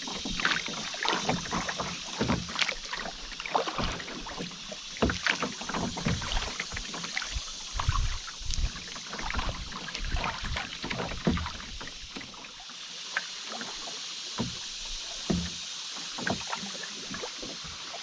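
Canoe being paddled down a river: a steady rush of moving water with frequent irregular knocks and splashes from the paddle and hull, growing sparser about two-thirds of the way through.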